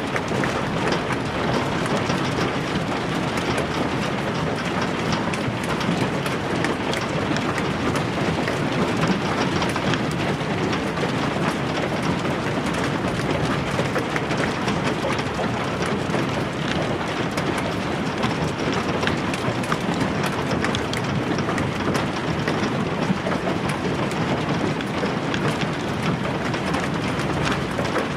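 Hailstones pelting down in a steady, dense clatter of countless small impacts.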